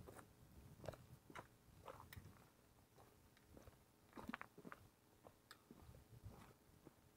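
Faint eating sounds close by: chewing, with scattered small clicks and soft knocks.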